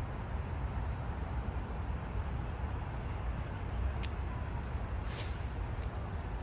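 Steady rumble of city street traffic, with a sharp click about four seconds in and a short hiss about a second later.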